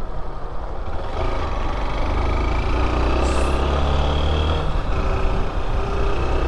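Motorcycle engine running on the move, with wind and road noise on the rider's microphone; it grows louder over the first couple of seconds and then holds steady.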